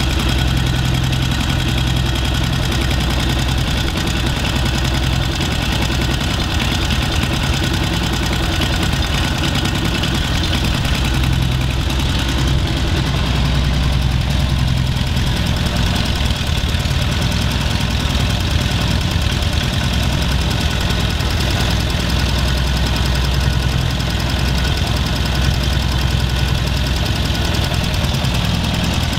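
1941 Zündapp KS 600's 597 cc transverse twin-cylinder OHV four-stroke engine idling steadily.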